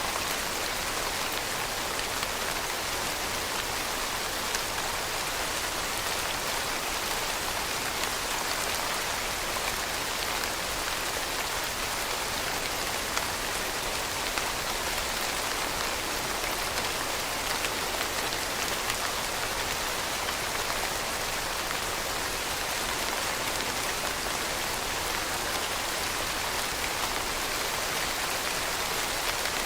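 Steady rainfall, a constant even hiss of drops hitting a surface with no breaks or changes.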